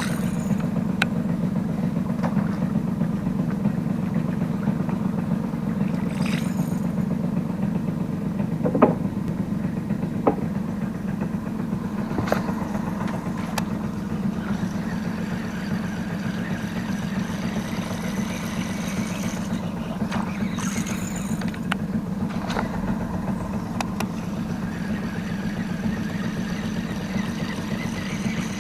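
A small boat's engine running steadily at a low, even pitch. A few short sharp clicks sound over it, two of them louder around nine and ten seconds in.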